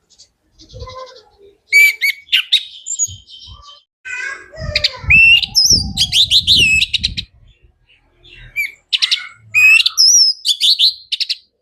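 Orange-headed thrush (anis merah) singing loudly in three bursts of whistled notes and fast trills, with short pauses between them.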